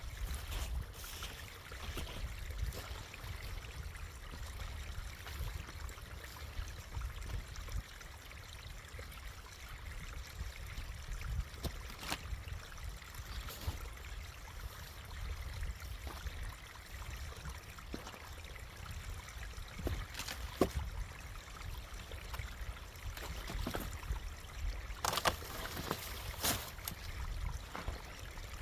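Low steady rumble with scattered sharp clicks, and two brief rustling noises near the end.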